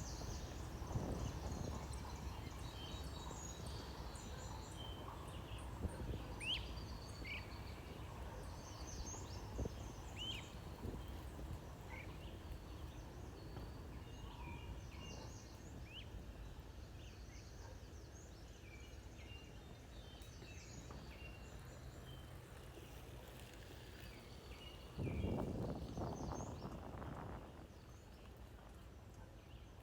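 Small birds chirping and twittering in short scattered calls over a steady low rumble. Near the end a louder rush of noise rises for about two seconds and then fades.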